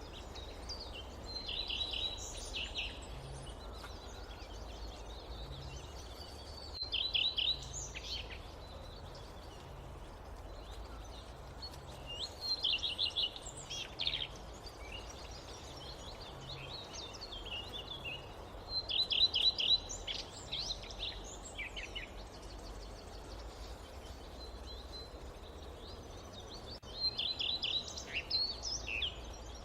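Forest ambience: a songbird repeats a short phrase of quick, high, stuttering notes five times, roughly every six seconds, over a steady low background rumble.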